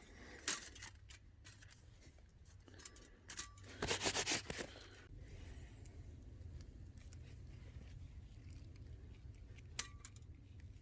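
Short rustles and sharp clicks of handling, with a quick run of clicking about four seconds in, over a faint low rumble.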